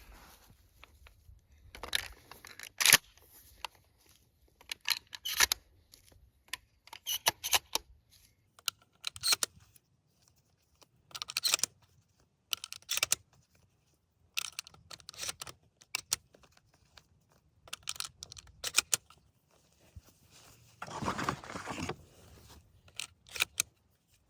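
Irregular handling noises: a series of short clicks, rustles and scrapes, with a longer rustle about three-quarters of the way through.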